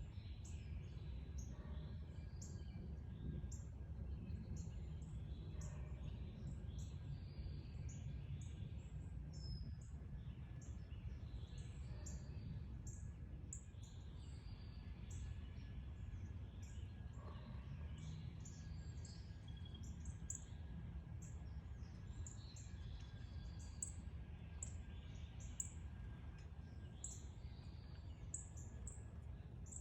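Backyard birds chirping: many short, high-pitched chirps, more frequent in the second half, over a steady low rumble of background noise.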